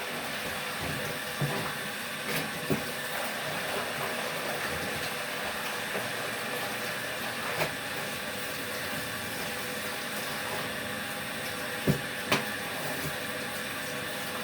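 Portable washing machine on its drain setting while water runs into the tub and drains out, a steady rush of water and machine hum. A few light knocks, two sharper ones near the end.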